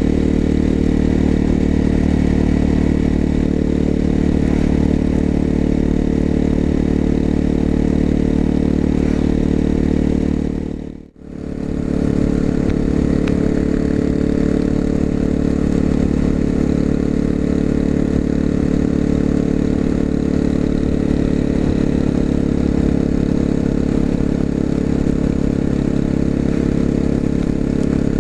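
Exhaust note of a 250 cc single-cylinder four-stroke motorcycle with an aftermarket muffler, running at a fairly steady engine speed while riding. About eleven seconds in the sound briefly fades out and comes back.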